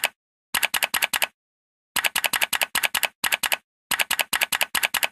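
Typewriter sound effect: short runs of rapid sharp key clicks, broken by stretches of dead silence.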